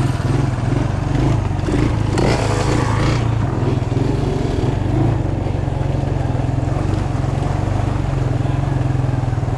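Small engine running steadily nearby with a fast, even putter. A brief rush of noise comes about two seconds in.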